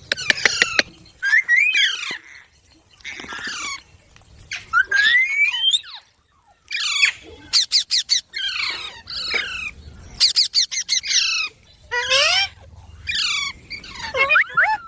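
Indian ringneck parrots squawking: a string of short, harsh calls sweeping up and down in pitch, separated by brief pauses, with runs of quick sharp clicks near the start and again around the middle.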